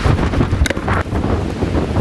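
Storm wind gusting hard against the microphone, a loud, uneven low buffeting rumble. A brief high tone sounds a little over half a second in.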